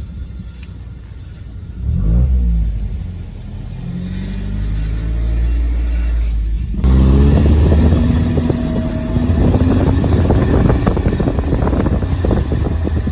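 Alfa Romeo 159 rolling, with a harsh scraping, rasping noise from a brake that jumps louder about seven seconds in. The cause is a small stone caught in the brake and rubbing against the rotor.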